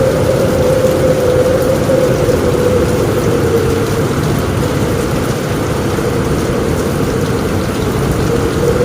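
Steady rain on a roof, an even continuous wash of noise with a low rumble beneath it and no sudden thunderclaps.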